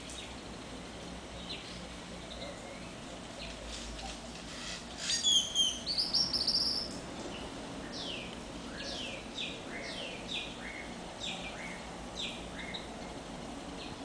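Wild birds calling in tropical forest: a loud burst of high calls about five seconds in, then a run of short falling notes, about two a second, over a faint steady hiss.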